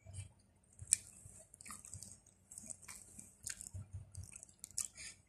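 A person chewing chicken nuggets close to the microphone: irregular wet mouth clicks and smacks, with one sharper click about a second in.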